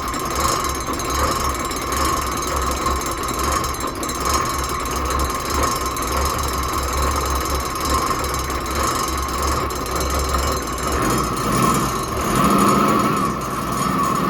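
Boat's diesel engine being cranked over on its starter motor while air is bled from the fuel system, a steady mechanical drone over a low pulsing that stops about eleven seconds in.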